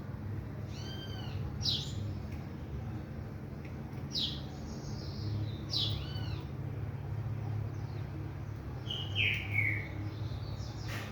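Pet birds giving short chirps every second or two, with a falling two-part call near the end, over a steady low hum.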